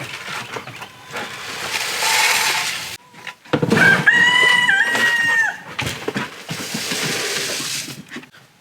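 A rooster crows once, one long call starting about three and a half seconds in, with rustling noise before and after it.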